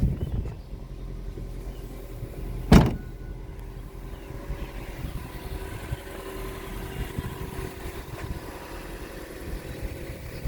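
2004 Subaru Forester XT's turbocharged flat-four engine idling steadily, with a single loud thump about three seconds in.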